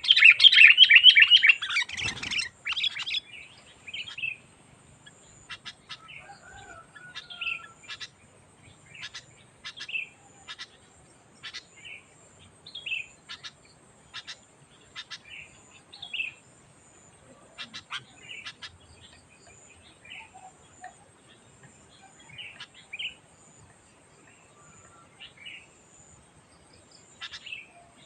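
Sooty-headed bulbul calling: a loud rapid burst of chattering chirps in the first two to three seconds, then short scattered calls and sharp ticking notes every second or so.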